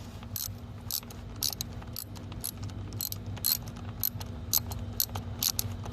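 Socket ratchet wrench clicking in short irregular bursts, roughly two a second, as bolts on the engine are worked loose, over a steady low hum.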